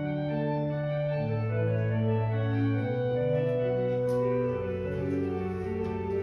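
Organ music: slow, sustained chords with a moving bass line, each note held for a second or more.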